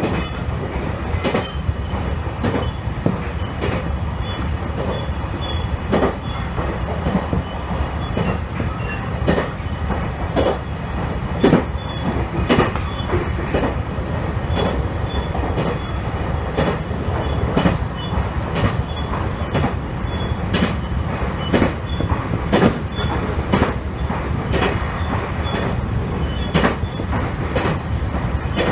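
Electric train running along the track, heard from inside the car: a steady low rumble of wheels on rail with irregular sharp clacks over rail joints.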